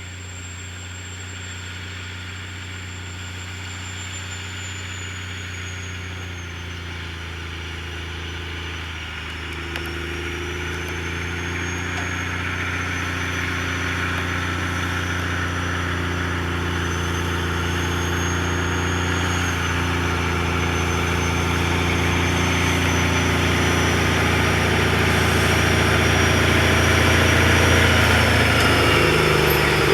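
A six-wheel-drive snow plow truck's engine running steadily and growing louder throughout as the truck approaches, with a thin high whine over it.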